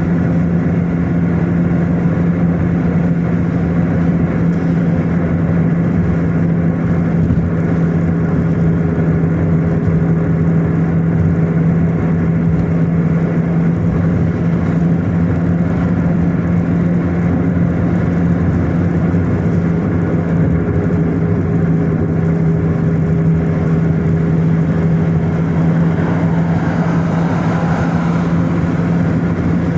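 Car driving: steady engine and road noise with a constant low drone.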